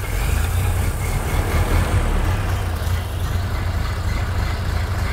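1929 Ford Model A's four-cylinder flathead engine running steadily at idle, just started after its fuel line and filter were replaced.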